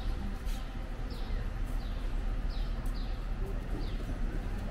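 Small birds chirping: short falling chirps repeated roughly twice a second, over a steady low outdoor rumble.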